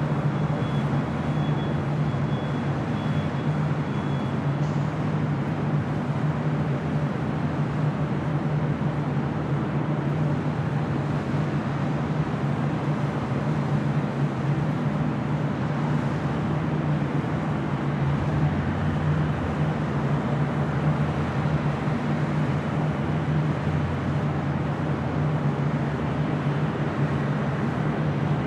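Lufthansa Airbus A380's four Rolls-Royce Trent 900 jet engines at takeoff power, a steady, deep jet noise through the takeoff run.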